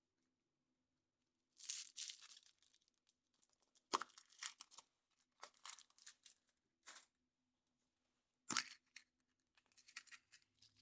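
Foil wrapper of a chocolate surprise egg being torn and crinkled in short bursts, with two sharp snaps, one about 4 seconds in and one about 8.5 seconds in, as the egg or its plastic capsule is opened.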